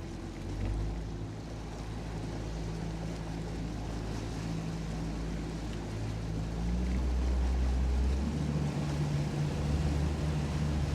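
Outboard motor of a small fishing boat running at low speed in shallow water, with a steady low engine note; about two-thirds of the way through the note shifts and grows louder as it picks up.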